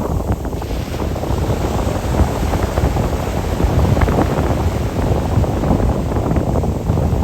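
Strong wind buffeting the microphone in gusts, over the sound of sea waves washing on the shore.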